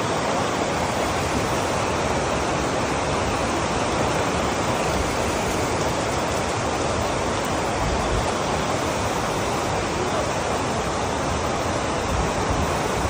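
Heavy rain falling, a steady dense hiss with no letup.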